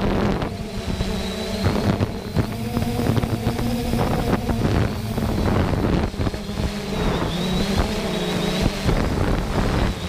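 3DR Solo quadcopter's electric motors and propellers humming in flight, with a faint high whine that wavers in pitch as the drone manoeuvres. Wind buffets the microphone.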